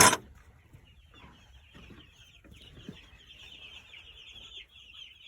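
A brood of young meat-bird chicks peeping, many high chirps overlapping, growing denser after the first couple of seconds. A sharp clatter sounds right at the start.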